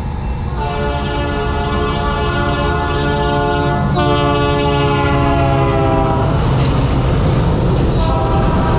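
Diesel locomotive multi-chime air horn on a coal train, sounding a chord as the train passes over a steady low rumble of engines and wheels. There is a long blast, a brief break and restart about four seconds in, the horn stops around six seconds, then it sounds again near the end.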